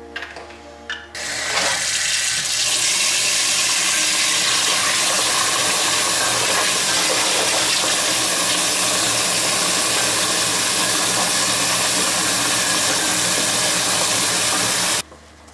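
Water running hard from a kitchen tap into a sink: a steady rush that starts abruptly about a second and a half in and stops suddenly near the end.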